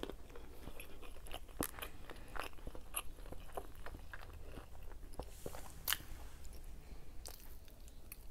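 A person chewing leftover food close to a clip-on microphone: irregular wet mouth clicks and smacks, the loudest about six seconds in.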